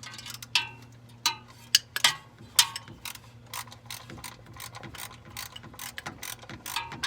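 Socket ratchet clicking in quick strokes as bolts are worked on an engine's valve cover, with several sharper metal clinks in the first few seconds.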